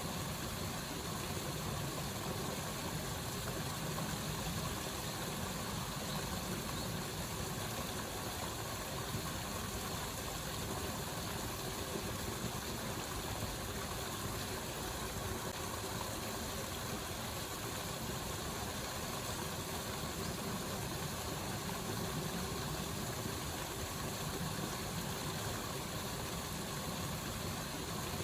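Steady rushing water, as of a waterfall or fast stream, with an even, unbroken hiss and rumble.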